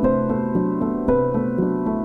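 Background music: a piano playing a steady melody over held chords.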